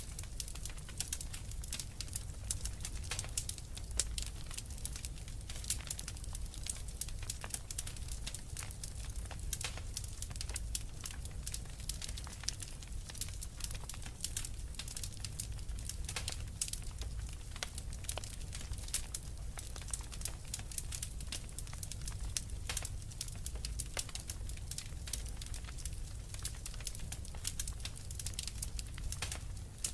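Wood fire burning in a fireplace: dense, irregular crackling and popping over a low steady rumble of the flames.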